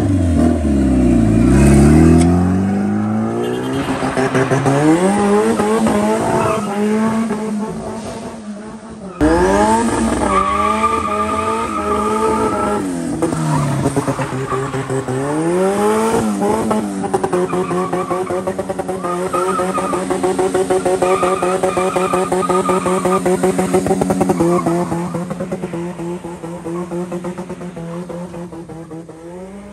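Toyota four-cylinder car engine revving hard, its pitch climbing and dropping in several runs, with an abrupt break about nine seconds in. A steadier high-revving stretch follows later, and the sound fades near the end.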